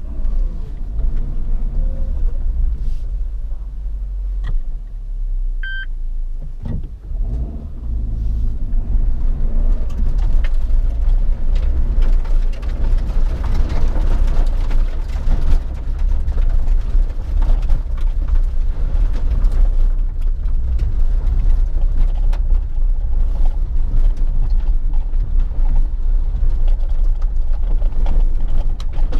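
Suzuki Jimny's 1.5-litre four-cylinder engine running as the vehicle drives, with a heavy low rumble and engine pitch shifting around a quarter of the way through. A brief high tone sounds about six seconds in, and a thicker noise full of small knocks and rattles builds after that.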